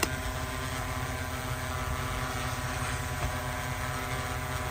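Multirotor drone's propellers humming steadily, with a sharp click right at the start and a fainter tick about three seconds in.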